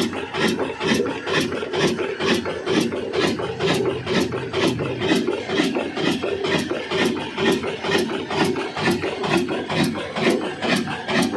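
Old black Ruston diesel engine running steadily, with a sharp regular clack about three times a second over its hum.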